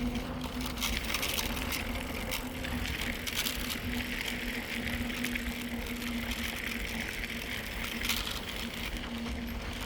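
Mountain bike rolling steadily, with tyre noise and wind on the phone microphone, and a steady hum that comes and goes throughout.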